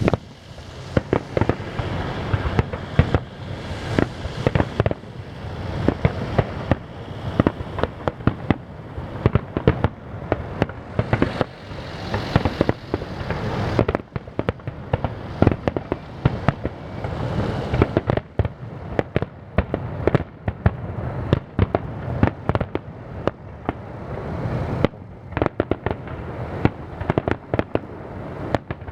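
Aerial fireworks bursting one after another, many sharp bangs in quick, irregular succession over a continuous low rumble of booms.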